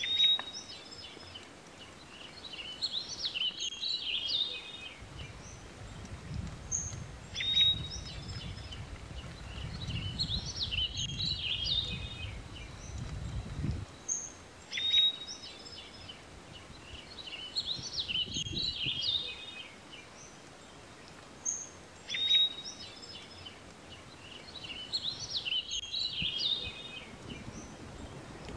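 A songbird singing the same short, high phrase over and over, about once every four seconds. A low rumble runs underneath from about five to fourteen seconds in.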